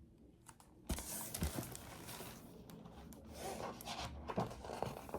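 Paper pages of a picture book rustling and crinkling as they are handled and turned, starting suddenly about a second in, with a few small clicks; fairly faint.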